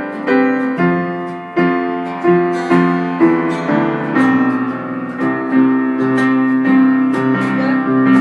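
Keyboard playing piano chords, struck in a steady repeated pattern at first and held longer in the second half.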